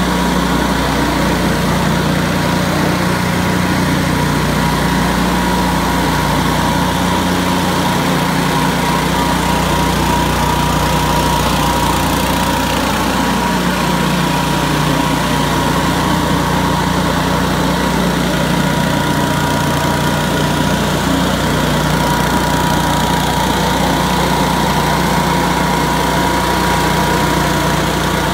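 Billy Goat F601S walk-behind wheeled leaf blower running steadily, its 170 cc Robin engine and large impeller blowing air, with a steady high tone above the engine's drone.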